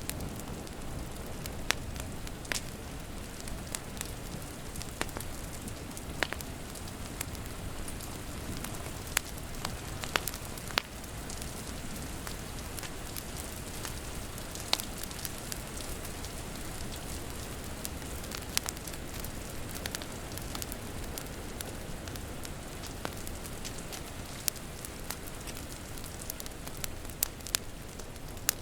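Wood fire crackling, with sharp irregular pops and snaps over a steady hiss of rain.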